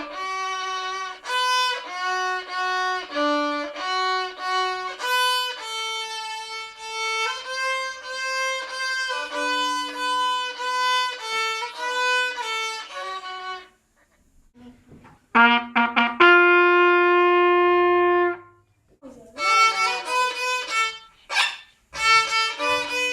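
A violin playing a melody of separate notes, which breaks off for about two seconds past the middle, resumes with one long held note, then ends with a run of short notes.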